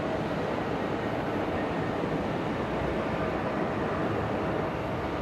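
Jet airliner engines running, a steady even rumble with a faint whine.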